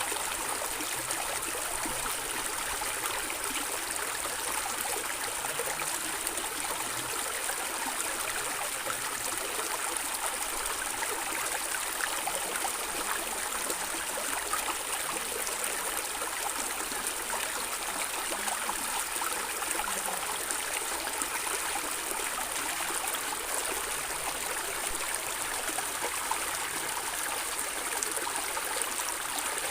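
A stream of water running and gurgling, a steady, unbroken rush that sits mostly in the higher pitches with little deep rumble.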